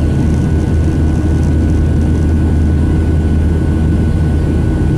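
Steady in-flight cabin noise of a Boeing 737-800 from a seat near the wing: the CFM56-7B jet engines and the airflow make an even, loud drone, with a deep hum and a faint steady high tone above it.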